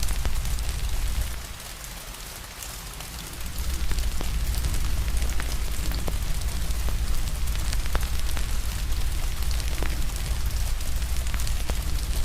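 Steady rain mixed with a crackling fire, with scattered sharp pops over a deep low rumble. The rumble drops away for about two seconds near the start, then returns.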